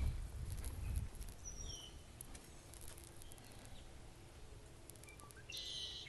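Outdoor wetland ambience: a low rumble of wind on the microphone in the first second, then a few short bird chirps and a louder bird call near the end.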